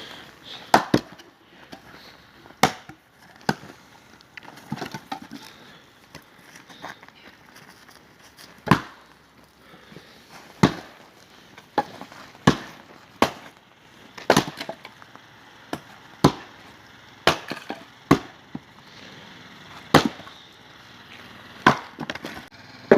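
Axe blows splitting frozen firewood rounds: sharp wooden cracks, irregularly spaced, about one every second or two.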